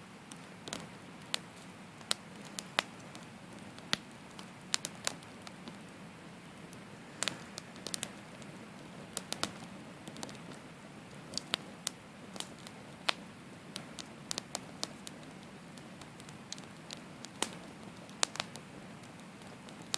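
Wood campfire burning: a steady low rush of flame with irregular sharp crackles and pops, roughly two a second.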